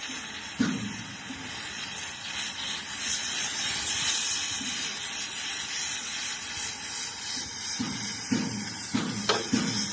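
A steady, high-pitched hiss, with a few short dull knocks near the end.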